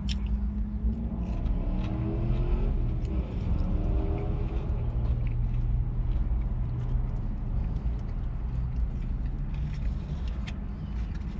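Steady low hum of a car idling, heard from inside the cabin, with soft chewing and small clicks of food and packaging being handled.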